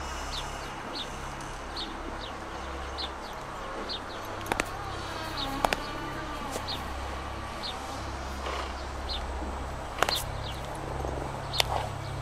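A bird chirping: short high chirps repeating roughly once a second over a steady low rumble, with a few sharp clicks.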